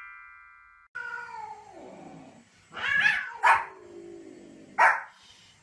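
A chime fades out, then a cat lets out a long, falling yowl. A small white Pomeranian answers with sharp barks, one about 3.5 s in and one near the end, with more yowling from the cat between them.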